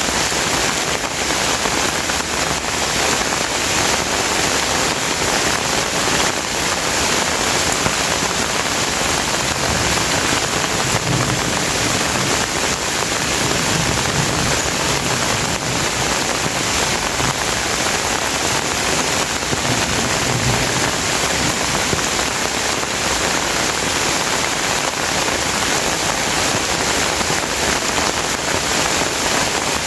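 Steady rain falling on surfaces, an even, unbroken hiss.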